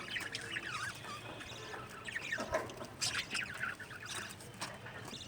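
A flock of budgerigars chirping and chattering, with short high calls scattered throughout.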